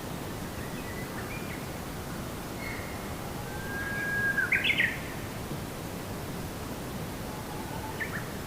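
Forest ambience with a steady hiss and a few songbird calls: a held whistle about four seconds in that ends in a few loud quick chirps, and a short call near the end.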